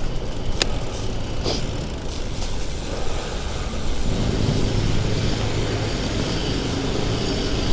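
Road traffic: a motor vehicle's engine running close by, a steady low hum that grows a little louder about four seconds in, over a constant road noise.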